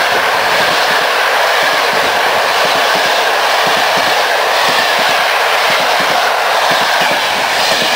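Passenger coaches of a train passing at speed close by: a loud, steady rush of wheels on rail with rapid, irregular clacking over the rail joints.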